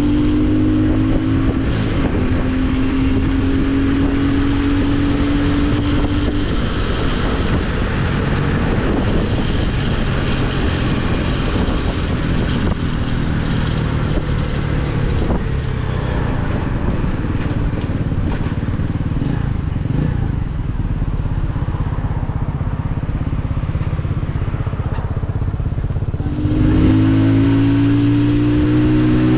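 Motorcycle engine while riding. It pulls up in pitch and shifts gear twice in the first few seconds, then runs on under a steady rush of wind and road noise, and about three seconds before the end it gets suddenly louder and climbs in pitch as it accelerates again.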